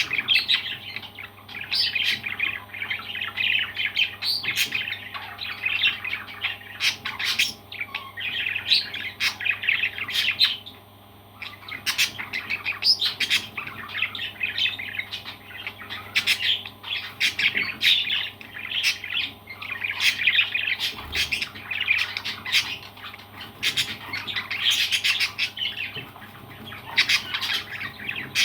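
Parrots chattering in rapid runs of chirps and squawks, with a brief pause about ten seconds in. A faint steady hum runs underneath.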